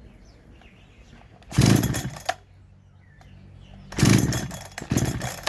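Farmertec G372XT two-stroke chainsaw, freshly ported and just started for the first time since, idling and revved hard three times in short bursts: once about a second and a half in, then twice in quick succession near the end.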